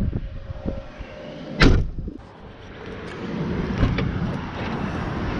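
A single loud thump about a second and a half in, then a steady rushing noise with a few light knocks.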